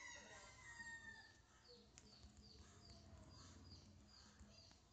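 Near silence: faint background with a small bird chirping in the distance, short falling chirps repeated about two or three times a second.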